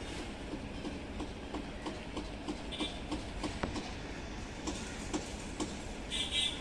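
MEMU electric multiple-unit train running along the track, its wheels clicking over rail joints in a fast, even rhythm over a steady rumble. Brief high-pitched squeals come twice, about three seconds in and near the end.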